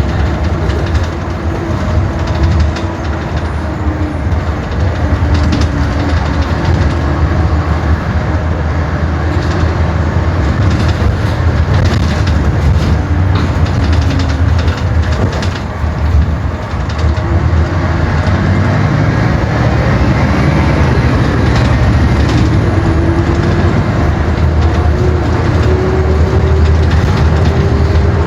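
Scania K 360 bus's five-cylinder diesel engine running under way with a heavy rumble and scattered rattles. Its pitch eases down a little past the middle, then climbs steadily through the last ten seconds as the bus accelerates.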